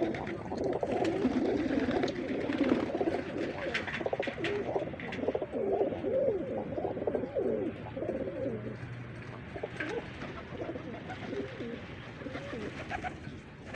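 A flock of pigeons cooing together in a dense, overlapping chorus, fuller in the first half and thinning out after about eight seconds.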